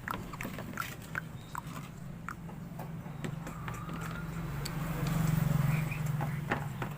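Scattered light clicks and taps, typical of small parts being handled and turned over during a fan motor repair, over a steady low hum that grows louder about five seconds in.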